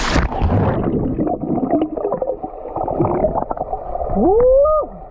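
Water heard with the microphone under water: the waterfall's hiss turns muffled all at once, with gurgling and bubbling. About four seconds in, a muffled tone rises in pitch and holds briefly.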